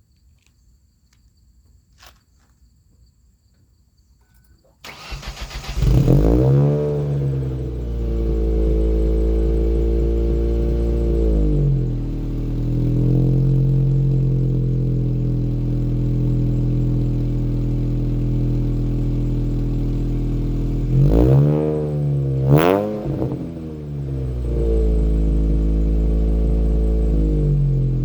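2003 Ford Focus SVT's 2.0-litre four-cylinder, with a long-tube header, no catalytic converter and an FSwerks dual-resonated exhaust, cold-starting. It cranks about five seconds in, catches and flares up, then settles to a steady idle. A little past twenty seconds it is blipped twice, rising and falling quickly each time, and then drops back to idle.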